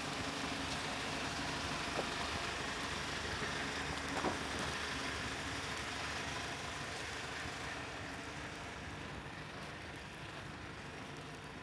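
Steady hiss of light rain under a low, even hum, with a couple of faint taps; it eases slightly in the last few seconds.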